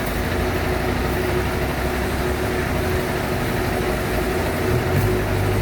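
Sawmill bandsaw machinery running steadily, with a low hum and a steady whine over it; the low hum changes about five seconds in.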